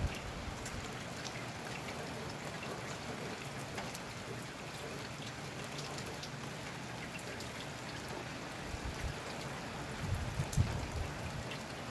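Steady rain falling: an even hiss with scattered fine drop ticks. From about nine seconds in, low gusts of wind buffet the microphone.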